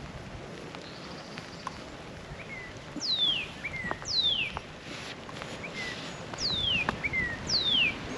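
A songbird singing four clear whistles, each sliding steeply down in pitch and led by a short lower note, in two pairs a couple of seconds apart. Light rain patters underneath.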